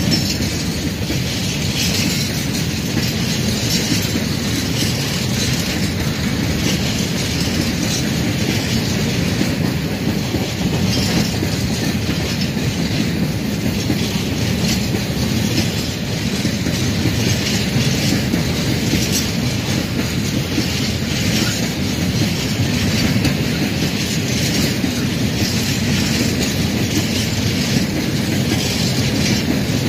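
A freight train of open-top PKP Cargo gondola wagons rolling past close by: a steady low rumble of steel wheels on the rails, with a running clickety-clack of the wheels over the rail joints.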